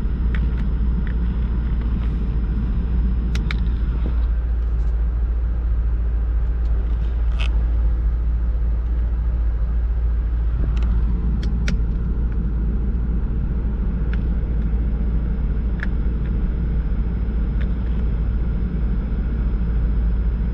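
2002 Jaguar XK8's 4.0-litre V8 idling steadily, heard from inside the cabin, with a few short, sharp clicks scattered over it.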